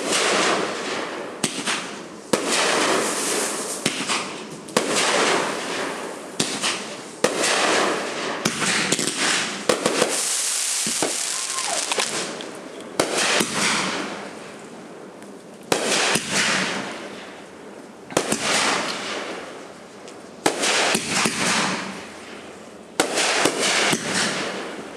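Aerial fireworks bursting in quick succession, a sharp bang every second or two, each trailing off before the next. A little before the middle, a longer hissing stretch runs between the bangs.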